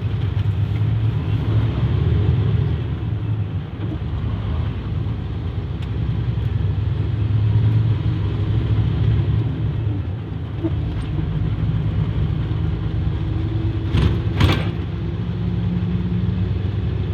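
Motor vehicle running with a steady low rumble, with two short louder noises about three seconds before the end.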